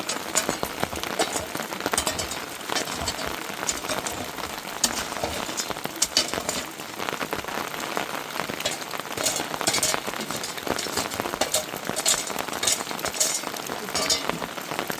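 Rain falling steadily, with many irregular sharp drop strikes.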